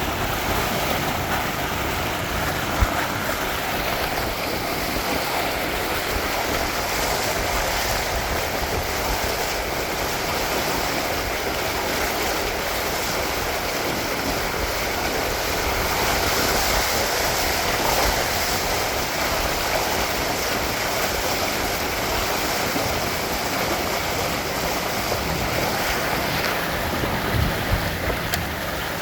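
Steady rush of water along the hulls of a Windrider 17 trimaran sailing fast, mixed with wind buffeting the microphone. A single sharp knock about three seconds in, and a few small knocks near the end.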